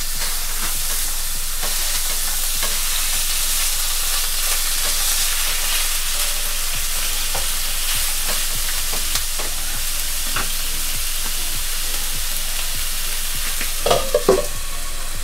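Beef mince sizzling in a hot frying pan: a steady frying hiss full of small crackles. Near the end, a few short louder clinks as a lid is put on the pan.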